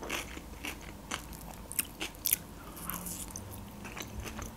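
A person chewing food close to the microphone: soft wet mouth clicks, with a couple of sharper crunchy clicks about two seconds in.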